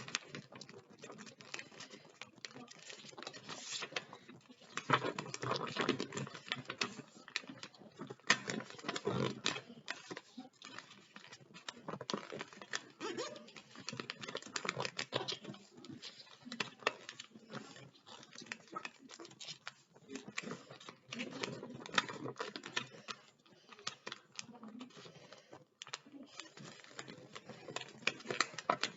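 A sheet of paper being folded and creased by hand into a paper airplane: irregular rustling and crinkling with many quick clicks and taps as the folds are pressed down.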